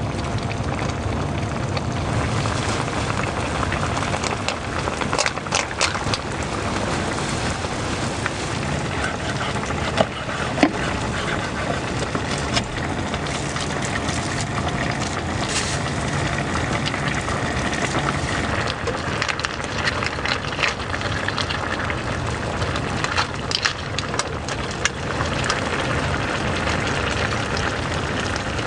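Heavy rain falling steadily, with scattered louder drops and drips ticking through it.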